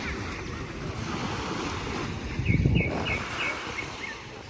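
Wind buffeting the microphone over the wash of surf on a beach, with a louder gust of wind rumble a little past halfway.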